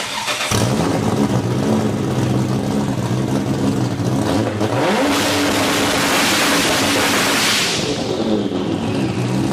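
High-horsepower twin-turbo drag car engine revving hard under load. Its pitch climbs in a sweep about five seconds in, and a loud rushing hiss follows for a few seconds.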